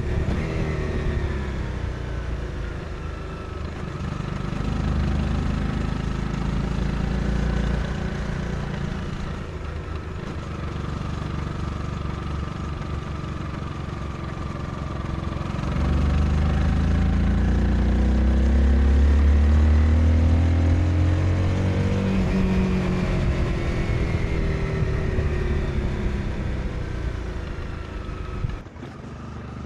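Honda CBR 250R's single-cylinder engine on a ride, its revs rising and falling through the bends. About halfway through it opens up and pulls hard for several seconds, then eases off, with a brief drop in sound near the end.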